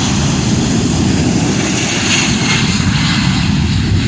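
Boeing 747's four jet engines at takeoff thrust at close range: a loud, steady rumble with a hiss over it that swells briefly about two seconds in.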